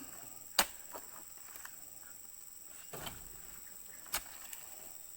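Steady high-pitched insect trilling in the background, broken by a few sharp clicks: one about half a second in, another around three seconds, and another around four seconds.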